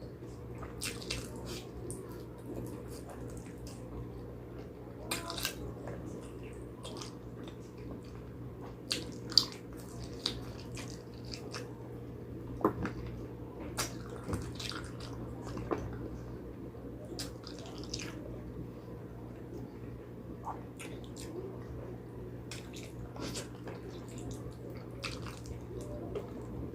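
Close-miked wet eating sounds of someone chewing spicy pig trotters: irregular sticky smacks, sucks and small clicks from the mouth, over a steady low hum.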